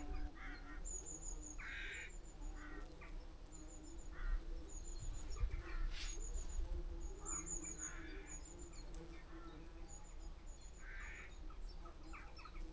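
Bees humming, a steady low drone from many bees working flowering bramble. Over it, birds chirp: little runs of very high, quick notes every second or so, and scattered lower calls.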